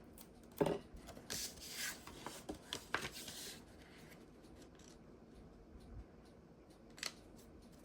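Paper and cardstock being handled: a light tap, a few seconds of rustling and sliding with a click, then another click near the end.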